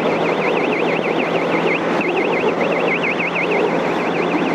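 Radar detector alert: a fast warbling electronic tone that sweeps up and down about six times a second, with a short break about two seconds in. It sounds over steady motorcycle engine and wind noise.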